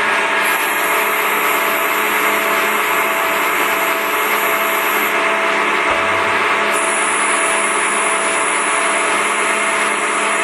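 Gang tool lathe running steadily while it machines UHMW plastic washers. A high thin whine sounds for a few seconds, stops about halfway through, and comes back a second or two later.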